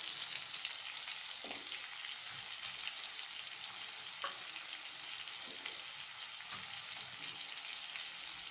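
Small onions, tomato and coconut pieces sizzling in hot oil in a frying pan: a steady crackling hiss with a few faint ticks.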